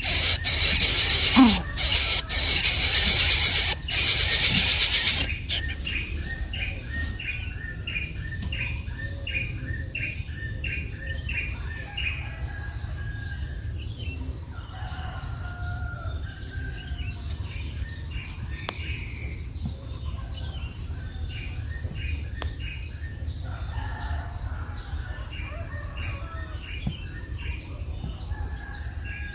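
A loud, steady hiss that cuts off about five seconds in, then a bird's short chirps repeated about twice a second, with other scattered calls in between.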